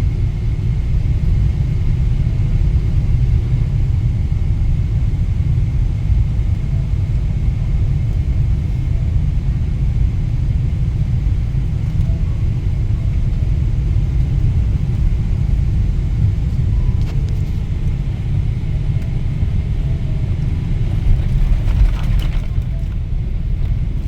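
Steady low rumble of a Boeing 777-300ER heard from inside the cabin during landing, even throughout with a faint steady high whine above it.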